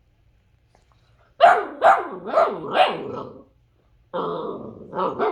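Boxer puppy barking and vocalizing: four short barks in quick succession, then after a brief pause a longer drawn-out call followed by another bark near the end.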